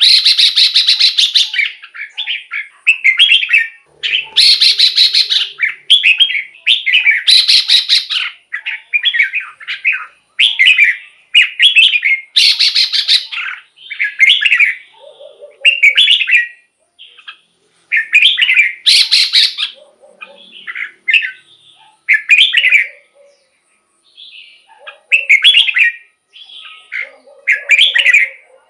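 Red-whiskered bulbul singing, a quick run of short warbled phrases, some of them harsh and rasping.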